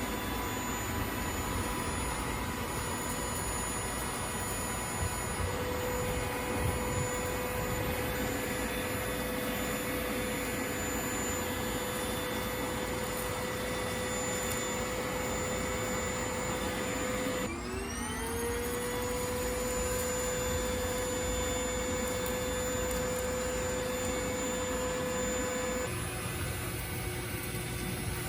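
Vacuum cleaner running with a steady motor whine over a rush of air. About 17 seconds in the whine dips and quickly climbs back up to pitch, and near the end its tone shifts lower.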